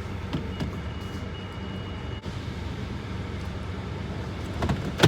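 Car engine idling, heard from inside the cabin as a steady low hum. A thin high tone sounds for about a second and a half near the start, and a sharp click comes near the end.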